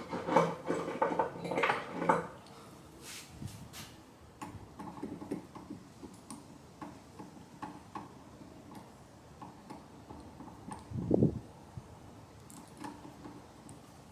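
Small clamps being handled and set on a knife handle during an epoxy glue-up. A quick run of clattering knocks in the first two seconds, then scattered light ticks and clicks, and a single dull thump about eleven seconds in.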